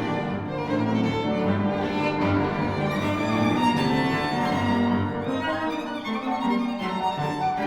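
Violin and cello playing classical chamber music, with long sustained bowed notes.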